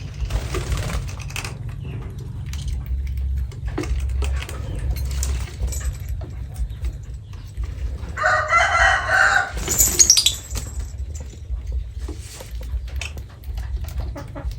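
Bird calls: scattered short chirps and clicks, then a loud harsh call about eight seconds in lasting over a second, ending in a sharp high squawk. A steady low rumble runs underneath.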